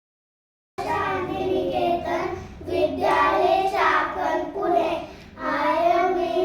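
A class of young children singing together in unison, starting a moment in, with a short break a little after five seconds.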